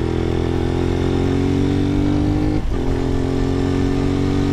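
Carbureted 150 cc Lifan KP Mini motorcycle engine running under way, its pitch creeping up. About two and a half seconds in it breaks off briefly and comes back lower, as a gear changes up.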